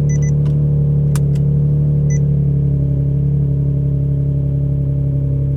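Nissan 350Z's turbocharged V6 idling steadily just after a warm start. Short electronic beeps sound twice near the start and once about two seconds in, with a couple of light clicks around one second in.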